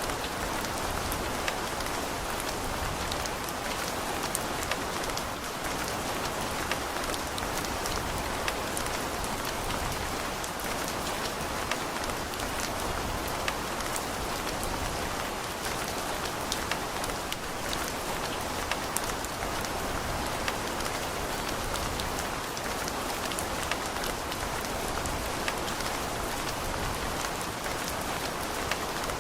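Steady rain falling, with a dense hiss and many small scattered drop ticks on a hard surface.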